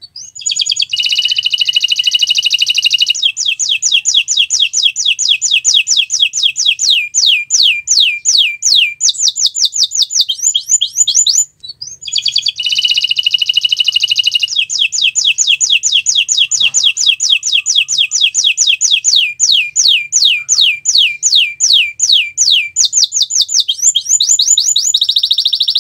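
Domestic canary singing long songs of rapid trills: runs of fast, repeated downward-sweeping notes alternating with buzzy rolls. The song breaks off briefly about halfway through, then starts again.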